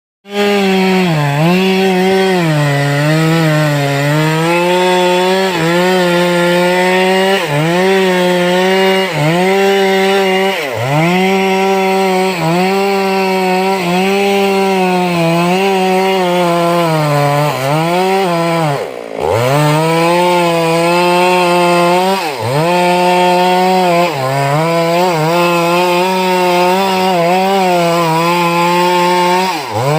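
Stihl chainsaw running at high revs while cutting through wood. The engine pitch sags under load and recovers again and again, every second or two, with one deeper drop about two-thirds of the way through.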